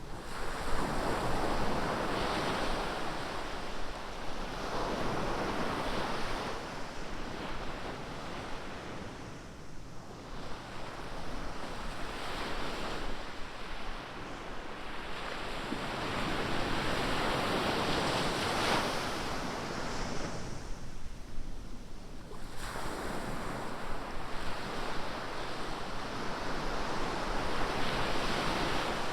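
Ocean surf: waves breaking and washing up the beach in slow swells every several seconds, the rush rising and falling without a break.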